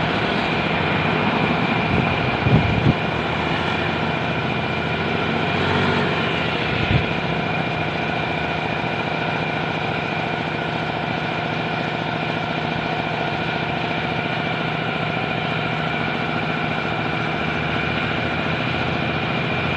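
Honda CR-V running steadily on a road test after its transmission repair, a constant engine and drivetrain hum with a thin steady high whine, with no grinding to be heard. A few short knocks about two and a half and seven seconds in.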